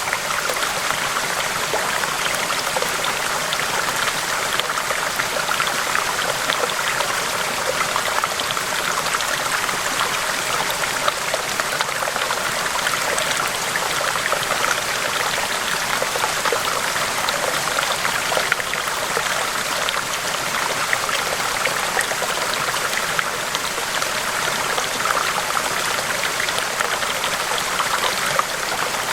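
River water rushing steadily, with many small splashes and no pause.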